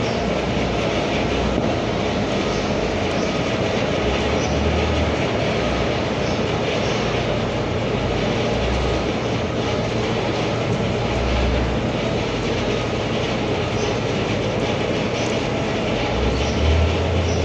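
A steady mechanical running noise, a low rumble under a dense hiss, like an engine or machine running continuously, swelling slightly in the low end now and then.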